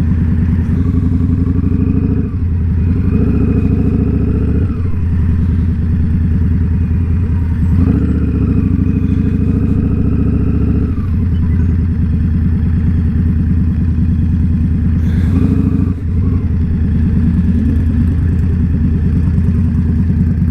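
Indian Scout Bobber's V-twin engine running under way. Its note changes several times, about 2, 5, 8, 11 and 16 seconds in, as throttle and gears change.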